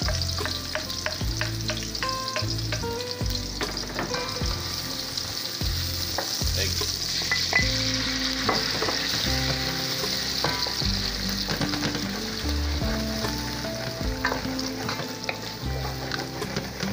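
Chopped garlic and red onion sizzling in hot oil in a frying pan, with eggs frying among them, as a wooden spoon stirs and clicks against the pan.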